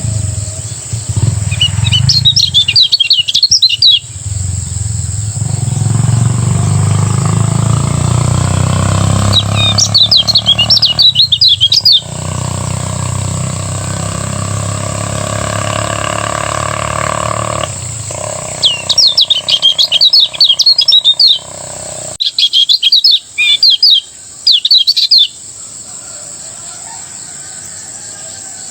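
Kecial kuning (lemon-bellied white-eye) singing in four bursts of rapid, high twittering, each two to three seconds long, over a steady high hiss.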